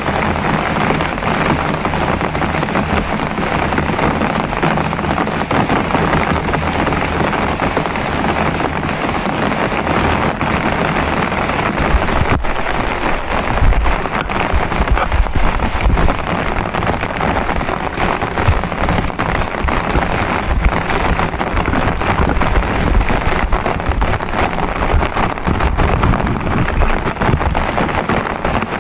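Heavy rain falling steadily, with a dense patter of drops. About halfway through, an irregular low rumbling joins it.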